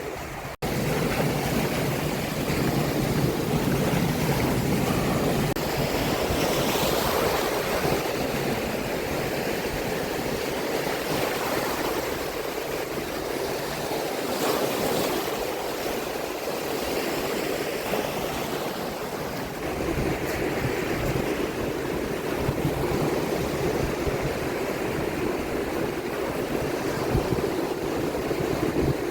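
Baltic Sea surf washing steadily onto the beach, with wind noise on the microphone.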